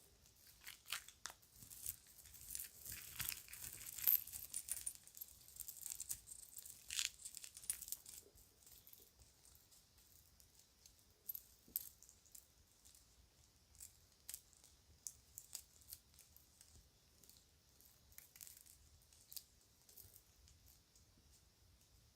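Children's jewelry and its bag being handled: a busy run of small clicks and clinks with a crinkly rustle for the first eight seconds or so, then scattered single clicks.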